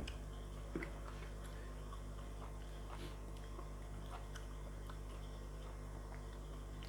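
A person chewing and eating close to the microphone: soft, scattered mouth clicks, over a steady low hum.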